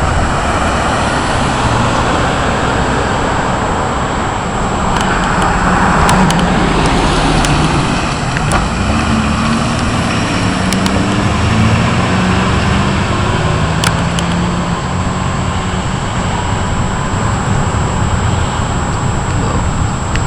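Thunderstorm: a loud, steady rush of noise with a low rumble underneath.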